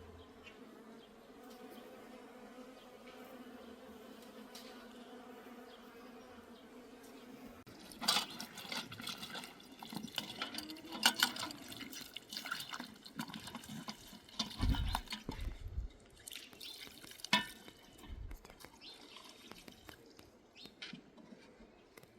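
A buzzing insect hums steadily for the first seven seconds or so. Then, from about eight seconds in, come water splashing and pouring with irregular clinks and knocks of things being handled.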